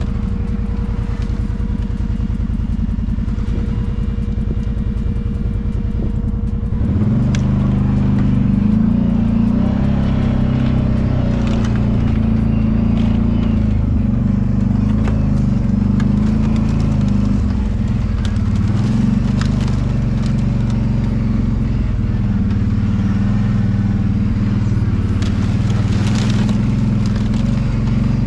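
Kawasaki Brute Force 750 ATV's V-twin engine running while riding a trail. It gets louder as the throttle opens about seven seconds in, and there are occasional clicks and knocks from the machine over rough ground.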